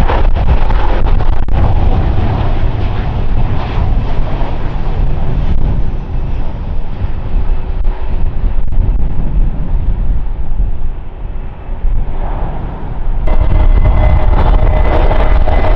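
Jet airliner engines at close range: a loud, deep rumble with a rushing roar that dulls and eases off as the aircraft moves away. About thirteen seconds in, the sound jumps abruptly to a brighter jet sound with a steady engine whine.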